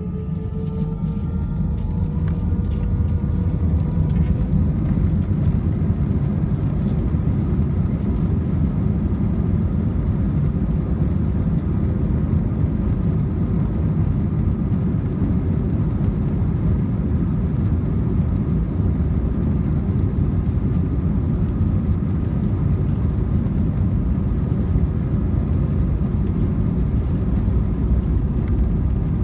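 Jet airliner engines heard from inside the cabin at takeoff power. A rising whine levels off in the first couple of seconds, and the noise swells over about four seconds into a steady, loud rumble of engine and rushing air.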